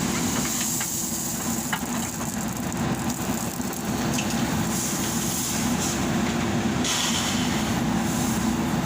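Heavy diesel machinery running steadily at a working site, with a few short stretches of high hiss and scattered light clicks.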